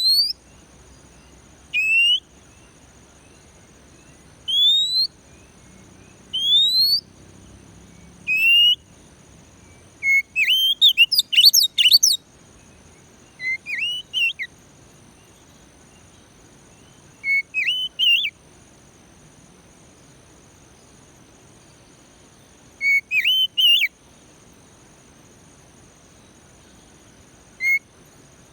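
Oriental magpie-robin (kacer) singing. It gives a string of clear rising whistles about every two seconds, then a quick burst of varied chirps and twisting whistles about ten seconds in, then short whistled phrases with long pauses between. A faint steady high-pitched hum runs underneath.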